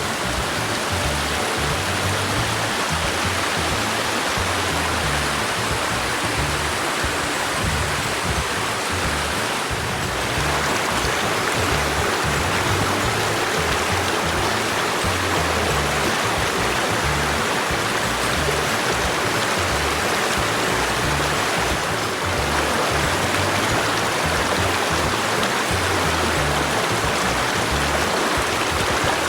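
Steady rushing noise, with background music playing underneath.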